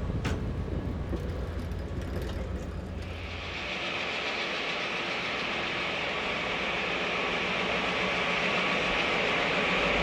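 Passenger train running along the track. A low rumble gives way, about three seconds in, to a steady higher rushing noise that grows gradually louder.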